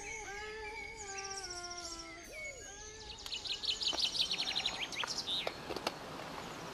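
Birds singing: runs of rapid high-pitched trills and chirps, with some held pitched calls in the first half and the trills growing louder and denser from about three seconds in.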